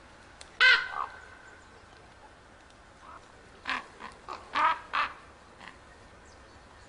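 Common ravens calling: one loud call about half a second in and a shorter one just after, then a quick run of five or so calls between about three and a half and five seconds in.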